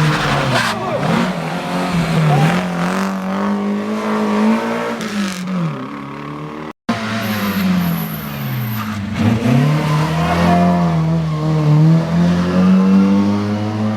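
Historic rally car engine revving hard on a special stage, its pitch climbing and dropping repeatedly through gear changes, with tyre noise. It breaks off abruptly about halfway and another loud run of revving engine follows.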